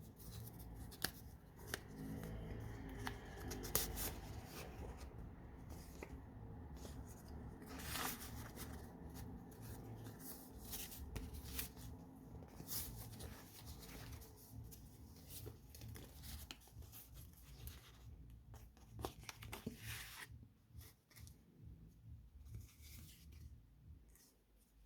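Pages of a handmade paper junk journal being turned and handled: paper rustling and crinkling, with many short soft clicks and taps. A low steady hum runs underneath.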